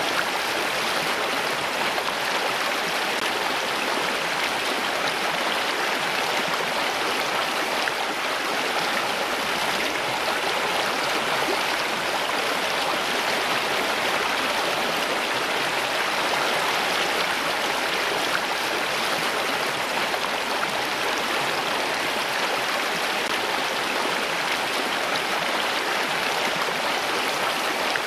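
Running water: a steady, unbroken rushing with no pauses or changes.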